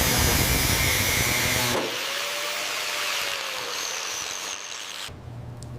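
Loud, harsh workshop tool noise that changes abruptly about two seconds in, then drops near the end to a quieter low hum with a few sharp clicks.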